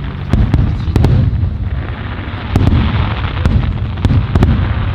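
Aerial fireworks display going off: a continuous rumble of shell bursts with many sharp cracks and pops, several close together near the start and again from about two and a half seconds in.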